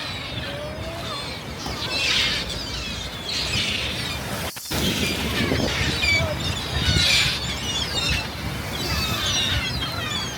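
A flock of seagulls calling, many overlapping squealing cries over a steady background rush. The sound cuts out for an instant a little before halfway.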